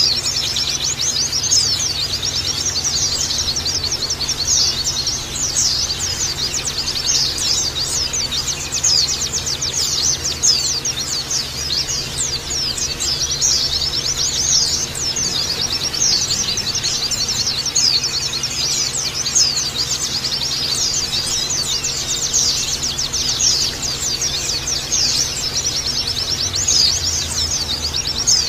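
A flock of white-eyes (pleci) chirping and twittering together: many fast, high, overlapping chirps in a dense, continuous chorus.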